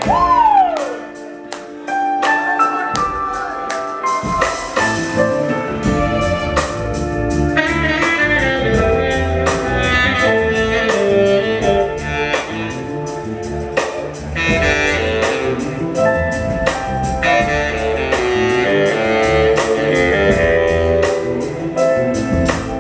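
Soul band playing live in an instrumental stretch without singing. The bass and drums come in fully about four seconds in.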